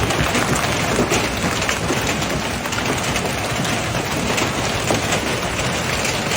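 Heavy rain and floodwater in a flash flood: a loud, steady, dense hiss with fine patter throughout.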